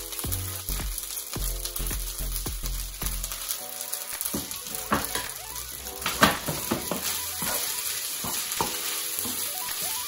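Udon noodle stir-fry sizzling in a hot frying pan as chicken and broccoli are tipped in with metal tongs, with scattered clicks and knocks of tongs and plate. A sharp knock comes about six seconds in.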